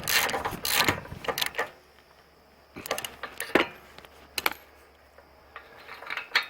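Hand ratchet wrench clicking rapidly for about a second and a half, then a few separate clicks and knocks of tools on the small engine.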